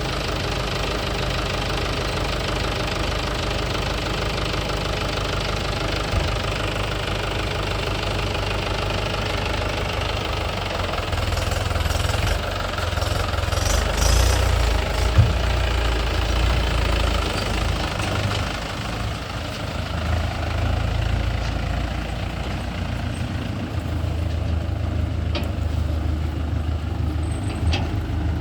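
Diesel engine of heavy farm or earthmoving machinery running steadily with a low, knocking hum, growing louder for several seconds around the middle.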